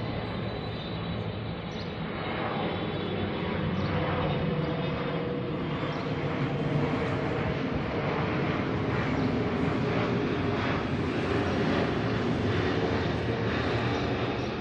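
Jet or propeller airplane flying over: a steady engine roar that swells a little after the first couple of seconds and holds.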